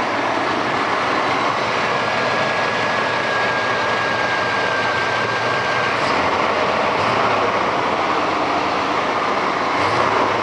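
1988 Chevrolet Silverado's 350 small-block V8 running steadily after a tune-up with new plugs, cap, rotor and fuel filter, now running well. A faint, thin, steady whine sits over it for the first half or so.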